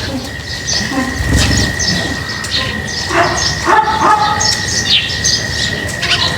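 Many small birds chirping in quick, overlapping short calls, over a steady high-pitched tone.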